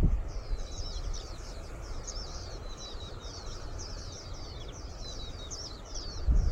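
Wild birds singing in a rapid, continuous stream of high chirping notes over a low background of breeze. Near the end a low rumble picks up.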